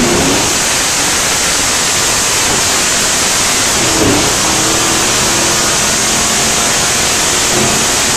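1972 Buick Skylark's 350 V8 running hard under load on a chassis dynamometer, its rear tyres driving the dyno rollers. The sound is loud and steady enough to swamp the recording into an even hiss-like wash.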